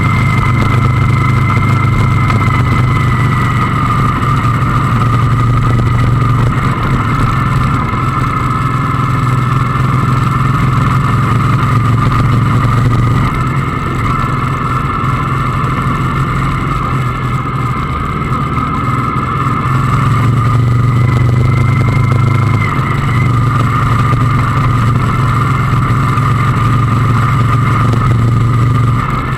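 Motorcycle engine running steadily under way, easing off for several seconds about midway and then picking up again.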